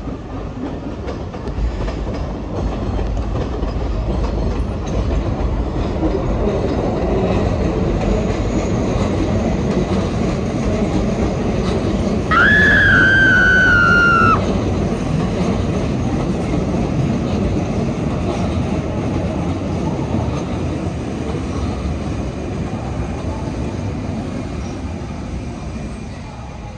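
Electric trains running along the tracks below, a steady rumble that fades toward the end. Near the middle, a single clear tone lasts about two seconds, falls slightly in pitch, and is the loudest sound.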